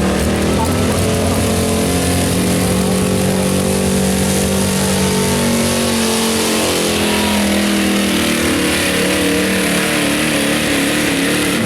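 Pulling truck's engine at high revs under load, dragging the weight sled. The pitch climbs over the first second, holds high, then wavers in the second half of the run.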